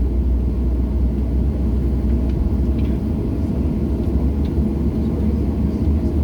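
Cabin noise of a Boeing 737-700 on the ground before takeoff: a steady low rumble from the engines and cabin air. A deep hum under it weakens through the middle and comes back strongly near the end.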